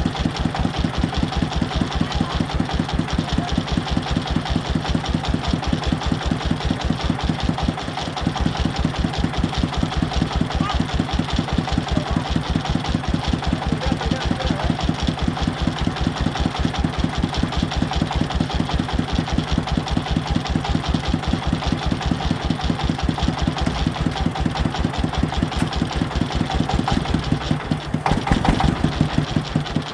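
Farm vehicle's engine running at idle with an even, rapid knocking beat, getting briefly louder near the end.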